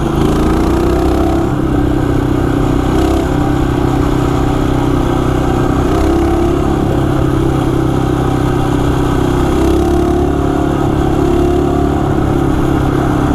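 Coleman CT200U EX mini bike's single-cylinder four-stroke engine running steadily while riding, its pitch wavering a little with the throttle.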